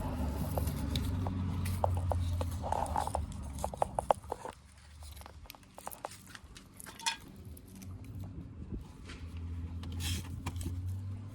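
Small plastic clicks and rustling as a door light's wiring connector and housing are handled and pressed into place, with a steady low hum underneath. A quick run of clicks comes in the first few seconds, then a few scattered ones later.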